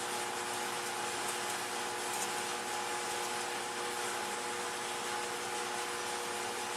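Steady machine whir and hiss with a constant low hum, unchanging throughout, from a motor running steadily in the background.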